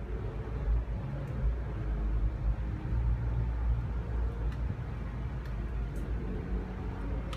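Low, continuous rumbling in the sky that swells and fades, with faint drifting tones above it: the strange sky sound.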